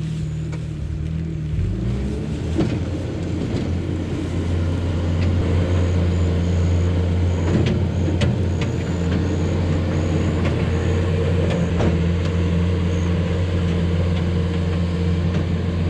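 A farm machine's diesel engine running close by. Its pitch rises about two seconds in, then holds steady, with scattered knocks and clunks.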